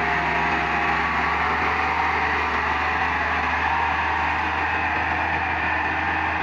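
Tractor engine running steadily at full power, holding an even pitch.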